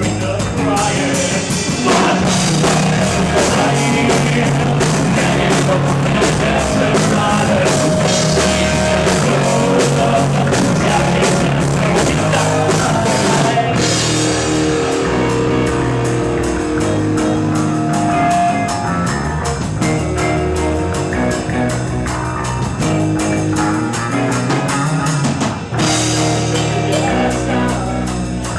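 A rock band playing live, with electric guitars, bass, drum kit and singing.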